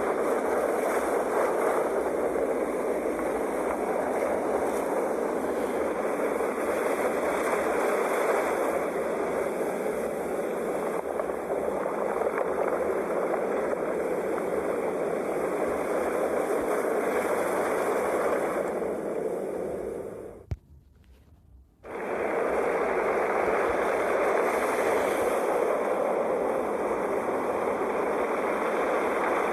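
Sea waves making a steady rushing wash with gentle swells. About two-thirds of the way through, the sound cuts out suddenly with a click for about a second and a half, then resumes.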